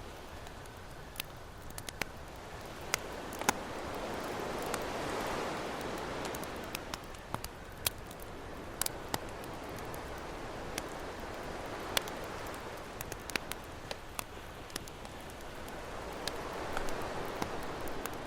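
Campfire crackling with irregular sharp pops, over ocean waves washing in and receding in slow swells, one building about five seconds in and another near the end.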